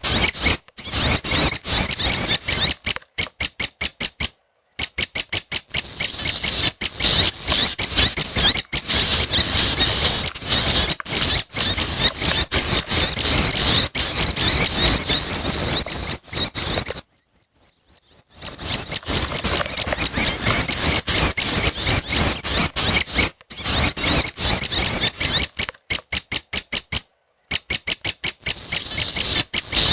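Young prenjak birds calling, a dense run of high-pitched chattering. It breaks off abruptly several times, with one silence of about a second and a half just past the middle.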